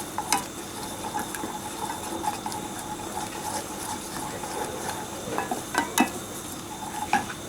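A utensil stirring cream into a sauce in a pan, with a few sharp clinks against the pan, the loudest about six seconds in, over a steady background hum.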